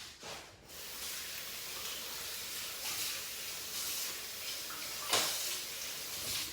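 Kitchen tap running steadily into a sink, a continuous hiss of water that swells briefly near the end.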